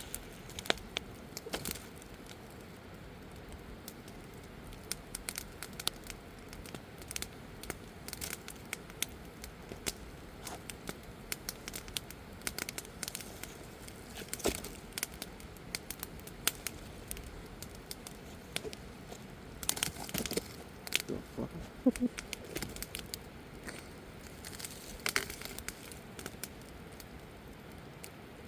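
Campfire crackling, with irregular sharp pops over a steady faint hiss and a few louder pops late on.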